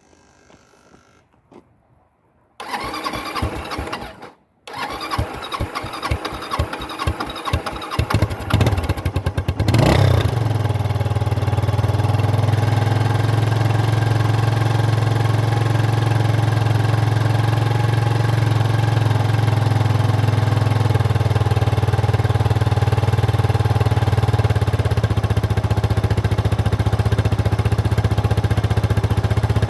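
Kawasaki Estrella Final Edition's air-cooled single-cylinder engine, all stock, cold-started after winter storage. It cranks briefly, pauses, then cranks again with uneven firing until it catches about ten seconds in with a short rev, then settles into a steady idle.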